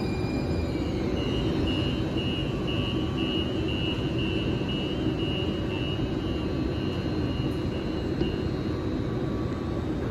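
Siemens LRV4 light rail train running through the subway with a steady rumble. Its high motor whine falls in pitch about a second in, and a high pulsing tone beeps about two to three times a second until near the end.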